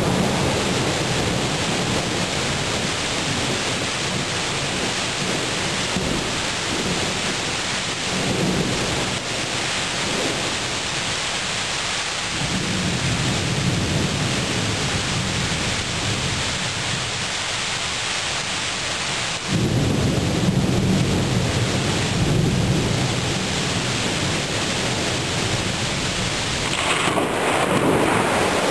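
Thunderstorm: steady heavy rain with long rolls of low thunder rumbling under it. The rumble steps up suddenly and grows louder about two-thirds of the way in.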